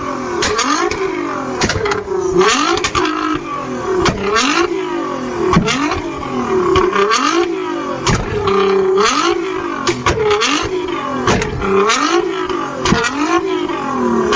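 A sports car's engine being blipped over and over, about once a second. Each rev rises and falls quickly, with sharp exhaust pops and cracks as the revs drop.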